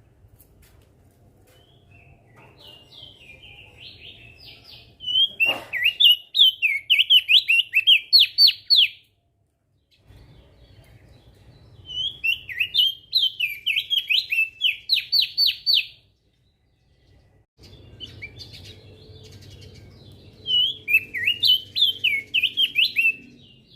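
Opior jambul (crested white-eye) singing in three bursts, each a fast run of sharp, repeated whistled notes lasting about three to four seconds, over a faint low background hum.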